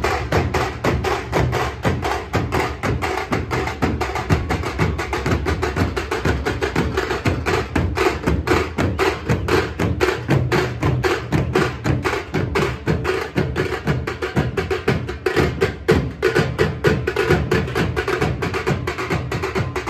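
Tasha drum band playing a fast, dense rhythm of stick strokes, with a deep beat underneath.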